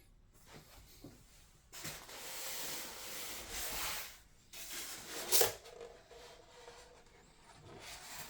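Model-aircraft packaging being handled and slid apart by hand. A stretch of rubbing and rustling about two seconds in, then a sharper scrape about five seconds in.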